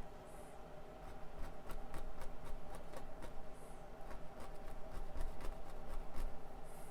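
Paintbrush tapping and dabbing paint onto a canvas: an irregular run of light taps over a faint steady hum.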